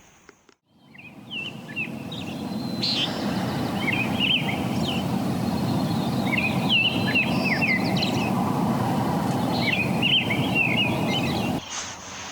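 Small birds chirping in repeated quick, sliding notes over a steady rushing background noise that builds up over the first few seconds and cuts off abruptly near the end.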